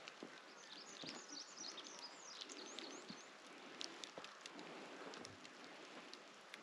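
Faint birds chirping in a forest: a quick run of high, short calls in the first half, thinning out later, over a soft steady hiss, with a few light clicks.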